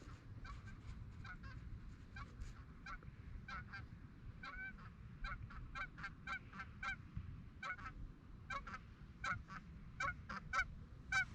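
A flock of Canada geese honking in the distance: many short honks in irregular quick succession, growing denser and somewhat louder near the end as the birds come closer. Low wind rumble on the microphone underneath.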